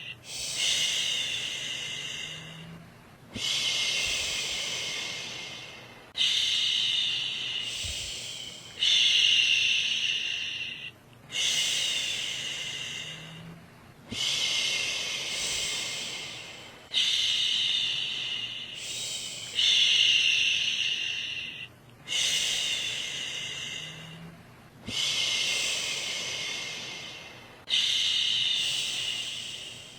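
A woman shushing, "shhh" over and over, each shush starting sharply and fading over about two seconds, about one every two and a half seconds.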